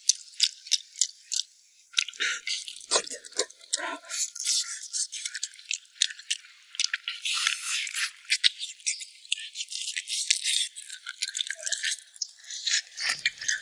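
Close-up chewing and gnawing on braised spicy pig's trotters: a dense, irregular run of small wet mouth clicks and smacks.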